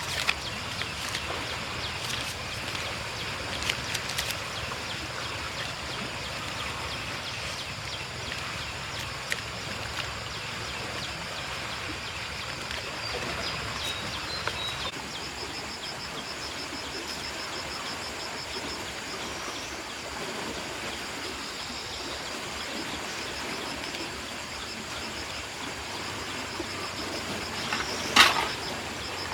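Outdoor ambience: a steady hiss with a high, rapidly pulsing chirr for a few seconds in the middle, scattered light clicks, and one sharp knock near the end.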